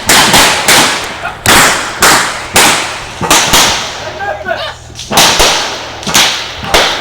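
A rapid exchange of gunshots from stage revolvers firing blanks in a mock gunfight: about a dozen sharp cracks at irregular intervals, each trailing off in a short echo.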